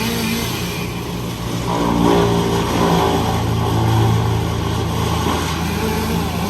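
An engine running steadily, revving up about two seconds in and easing back off near the end.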